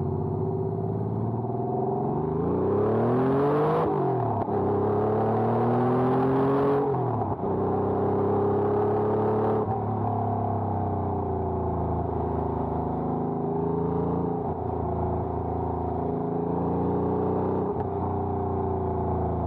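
1992 Porsche 911 Carrera 2's air-cooled 3.6-litre flat-six, heard from inside the cabin while driving. The engine note climbs twice, dropping sharply at an upshift about four and about seven seconds in. It then settles into a steady cruise with small lifts and dips.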